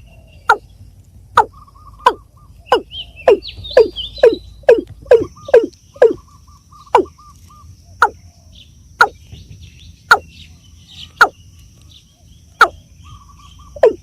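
Watercock (kora) calling: a series of short, sharp, falling notes about one a second, quickening to about two a second a few seconds in, then slowing again. Smaller birds twitter behind it, and a steady high insect whine sets in about five seconds in.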